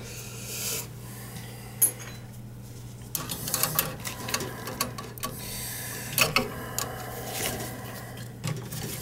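Hand work on metal boiler fittings and tubing: scattered clicks, taps and short scrapes of tools and parts being handled, over a steady low hum.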